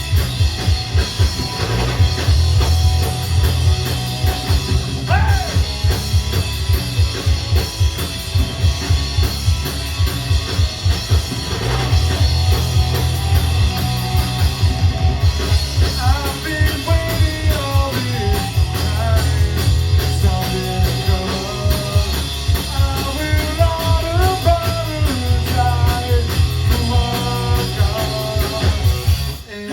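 A rock band playing live, with a steady fast drum beat under guitars and bass. A bending melodic lead line comes in from about halfway through, and the music drops out for an instant near the end.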